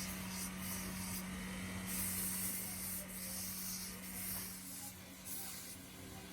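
Workshop machine running with a steady hum, under a high rubbing hiss that swells and fades in stretches of about a second, as a metal part is worked against it.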